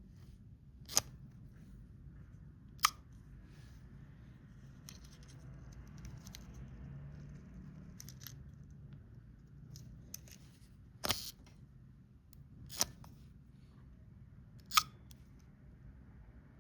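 Shutter of a Minox B subminiature camera firing: five sharp clicks at uneven intervals, the last near the end. Softer clicks and light scraping from handling the camera fall between them.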